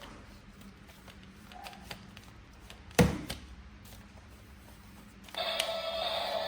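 Hands handling a toy figure and its packaging: scattered light clicks and taps, with one sharp knock about halfway through. Background music comes in near the end.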